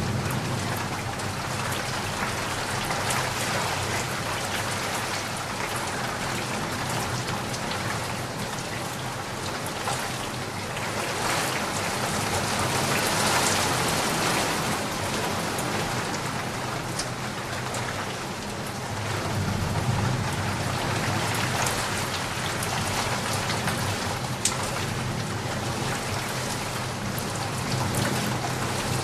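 Steady rain falling on a surface, swelling a little about halfway through, with low rolls of thunder rumbling beneath it at times.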